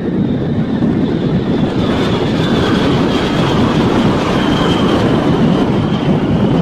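Loud, steady rumbling roar of a large vehicle or engine, with faint high whining tones above it.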